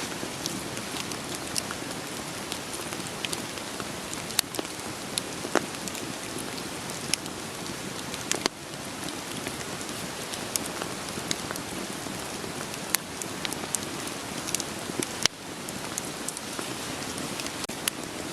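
Steady rain hiss with irregular sharp pops and crackles of burning firewood scattered through it.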